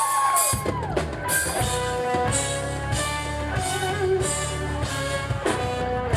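Live band playing upbeat dance music with electric guitar and drum kit. Bass and drums come in about half a second in, after a sustained tone, and carry a steady beat.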